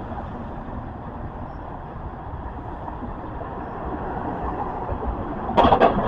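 Steady downtown street traffic noise that grows a little louder over the last couple of seconds, with a short, loud burst near the end.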